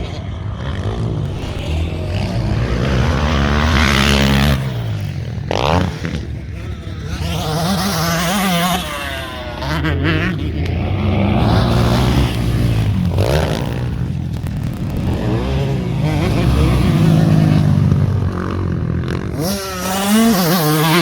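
Motocross bike engines revving hard and dropping back again and again as the throttle is worked, with a short sharp crack about five and a half seconds in.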